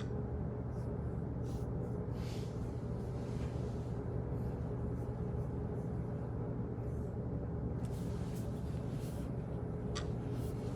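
Office background noise: a steady low hum with a faint steady tone, broken by a few scattered light clicks and short rustles.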